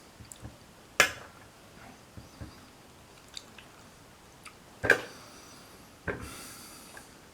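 A pink-and-grey galah (cockatoo) giving three short, harsh calls, about a second in, about five seconds in and about six seconds in, the last one drawn out a little longer.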